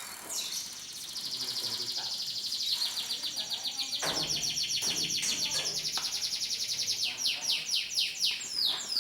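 Domestic canary singing: a long rapid trill, then from about seven seconds a series of quick falling notes, about three a second.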